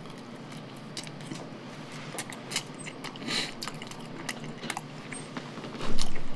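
Close-miked chewing of kaya jam bread topped with a soft-poached egg: a bite, then scattered wet mouth clicks while chewing, with a louder knock about six seconds in.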